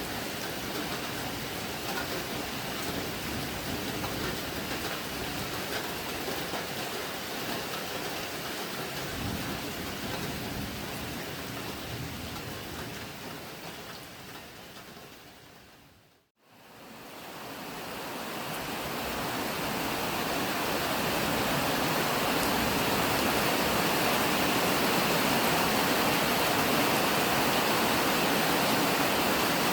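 Heavy rain falling as a steady hiss, fading out to silence a little past halfway, then fading back in steadier and louder.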